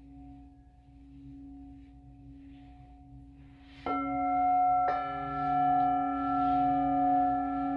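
Singing bowls ringing: one bowl's low tone sustains softly, then two more bowls are struck about four and five seconds in, adding brighter, higher tones that ring on together with a slow wavering in loudness.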